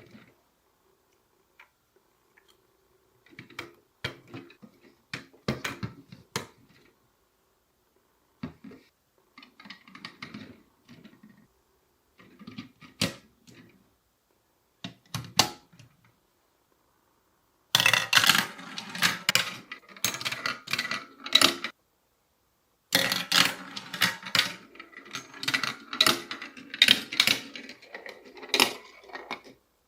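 Marbles rolling and clacking through a block marble run. Scattered clicks and short rattles give way to two longer stretches of dense clattering, about 18 and 23 seconds in.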